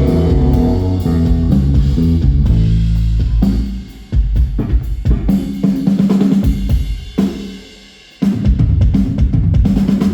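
Rock band playing live on stage, drum kit to the fore: held bass and chords at first, then hard drum hits over a low note, breaking off briefly twice near the end.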